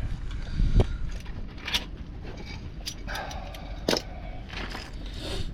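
Hand tools clinking and scraping against metal parts of a truck's rear axle and drum brakes, with a few sharp knocks.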